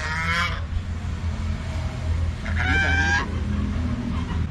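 Three loud, drawn-out animal calls, each about a second long and about two seconds apart, over a low steady hum.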